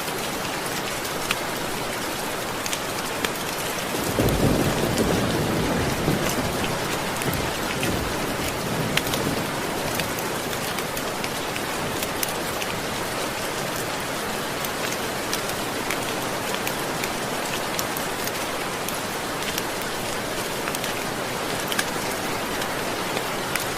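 Steady rain, with a roll of thunder about four seconds in that fades over the next few seconds. Scattered sharp ticks run through it.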